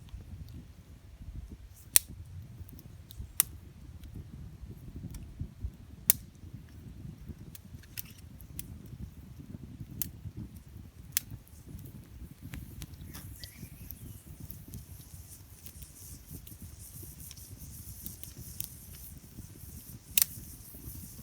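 Wood campfire crackling: sharp, irregular pops a few seconds apart over a low steady rumble. A high hiss joins about halfway through.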